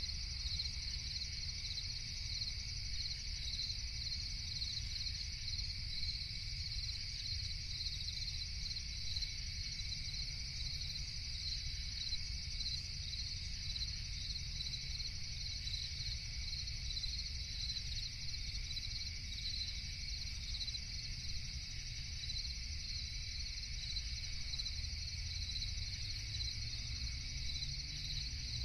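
Night insect chorus of crickets chirping in a dense, unbroken trill, with a fainter steady insect band beneath it and a low steady rumble underneath.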